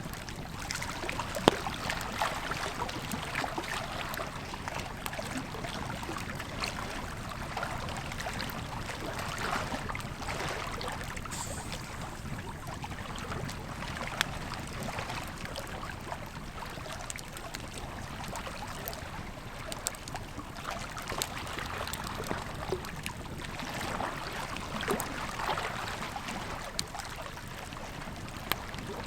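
Campfire crackling, with scattered sharp pops, over the steady rush of a flowing river.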